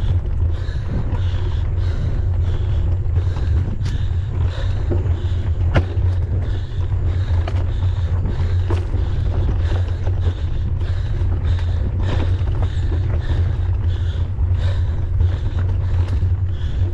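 Wind buffeting the microphone of a camera on a mountain bike in motion, a steady low rumble, with a rhythmic hissing pulse about one and a half times a second and a few sharp knocks from the bike jolting over the trail.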